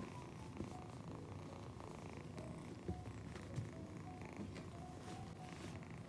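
Domestic cat purring close to the microphone, a steady low rumble, with a few small clicks.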